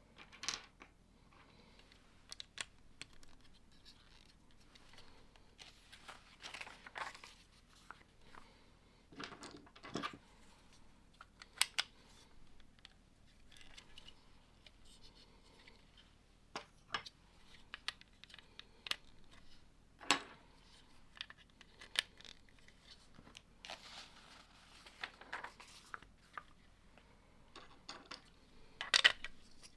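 Lego bricks being handled and pressed together: scattered, irregular plastic clicks and snaps with short rustles of loose parts, the loudest click near the end.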